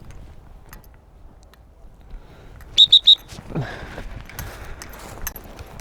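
Three short, sharp blasts on a dog-training whistle, given quickly one after another to a retrieving Labrador.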